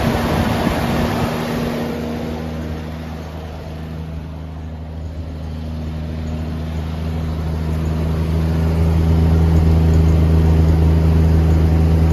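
Toyota 2F 4.2-litre inline-six petrol engine idling just after a cold start. The first second or so is a broad rushing noise from the engine bay. It then settles into a steady, low exhaust note from the tailpipe, which grows louder through the second half.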